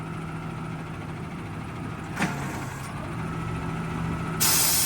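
Garbage truck engine running at a steady low hum, with a short knock about two seconds in. Near the end a loud, sudden hiss of air starts, typical of the truck's air brakes.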